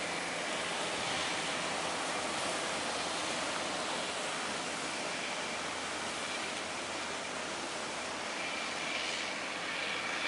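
Steady rush of heavy waves and water, with a faint low engine drone underneath.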